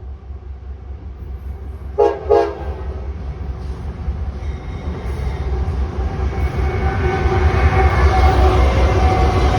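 Diesel freight locomotive giving two short horn blasts about two seconds in, then drawing closer, with its engine and rolling noise growing steadily louder.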